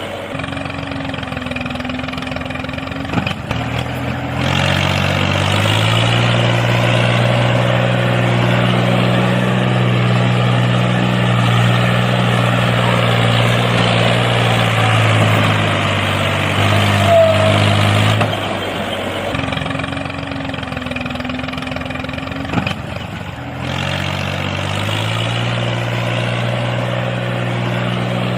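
Tractor engine running steadily, its pitch stepping up as it revs about five seconds in, dropping back around eighteen seconds and rising again near the end.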